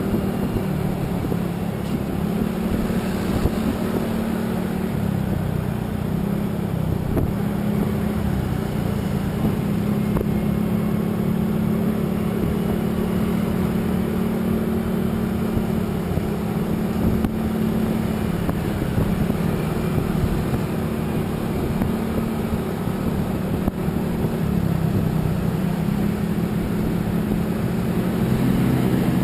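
A motor vehicle driving at steady speed: a constant engine hum under road and wind noise, the engine note rising and falling slightly every few seconds.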